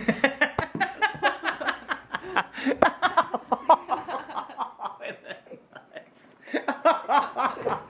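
People laughing, a rapid run of chuckles that eases off about five seconds in, with voices again near the end.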